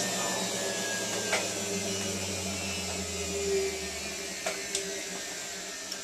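Hotpoint 9534A washing machine drum spin winding down: the motor whine falls slowly in pitch and a low hum stops about four seconds in, with a few light clicks from the machine.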